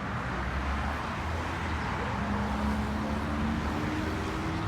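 Car engine running with a low steady hum; from about two seconds in, its pitch rises slowly.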